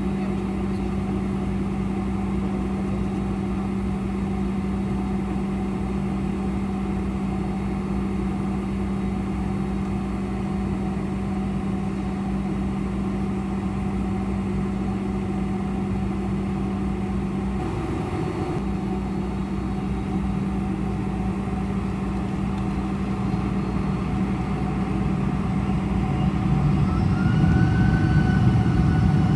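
Boeing 747-400 jet engines heard from inside the cabin: a steady drone with a strong low hum. Over the last few seconds the sound grows louder and a whine rises in pitch as the engines spool up toward takeoff thrust.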